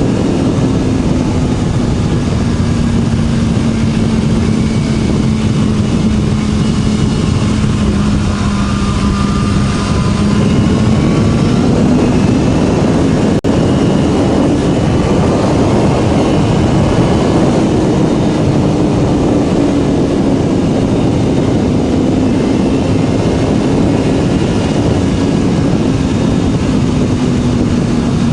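BMW S1000RR's inline-four engine running at a steady cruise through an Akrapovic slip-on exhaust, its pitch drifting slowly down and back up, under heavy wind rush from riding.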